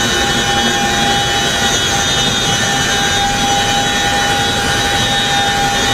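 Chinook helicopter's twin turboshaft engines running with a steady high whine over a loud, even rushing noise.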